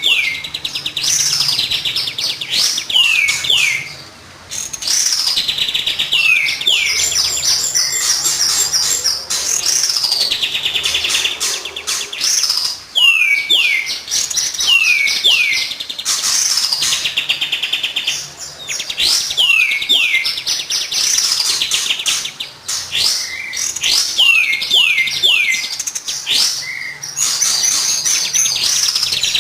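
Kapas tembak song used as a lure recording. Phrases of quick falling whistles are each followed by a fast trill, repeated every five or six seconds.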